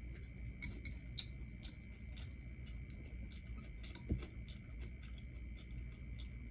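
Close-miked chewing of pho with wet mouth clicks and smacks, and one dull thump about four seconds in. A faint steady high whine sits underneath.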